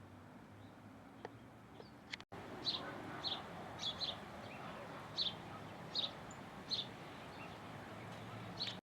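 A bird giving a series of short, high chirps, one or two a second, over steady outdoor background noise. The background breaks off abruptly about two seconds in before the chirping starts, and all sound cuts off suddenly near the end.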